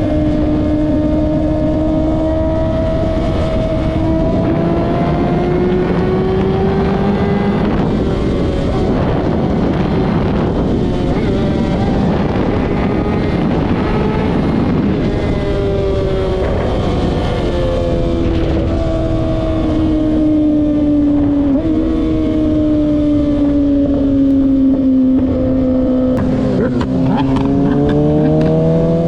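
Kawasaki ZX-6R inline-four motorcycle engine running hard under way, its pitch slowly sinking and climbing as it is held, eased off and accelerated. There is a rougher, noisier stretch in the middle and a sudden drop and climb in pitch near the end.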